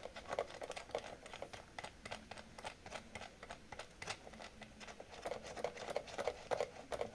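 Irregular light clicks and taps of small parts being handled, several a second, some louder than others.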